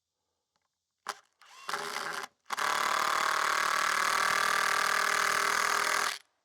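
Cordless power driver driving a screw into a timber beam: a short trigger pull, a slightly longer one, then a steady run of about three and a half seconds that stops abruptly.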